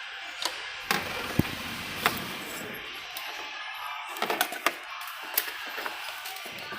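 Scattered metallic clicks and knocks of hands and tools on the engine's pulleys and brackets as a new V-belt is worked on, with the engine stopped.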